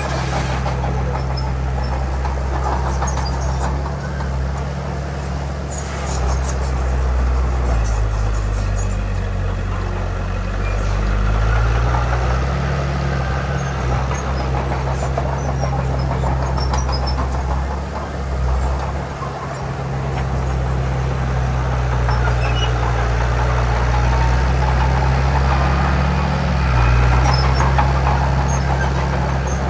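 Heavy diesel engine of earthmoving machinery running under load, its engine speed dropping about eight seconds in, rising again a few seconds later, and shifting once more near the end.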